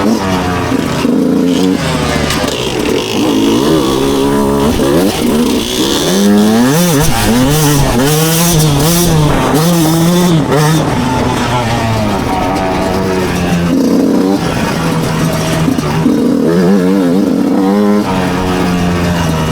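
Two-stroke motocross bike engine under hard riding, its pitch rising and falling again and again with throttle and gear changes. It wavers rapidly up and down through the middle.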